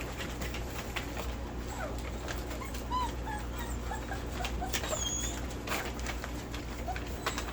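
Dogs whimpering: a scatter of short, high-pitched whines and squeaks, with a few faint clicks between them.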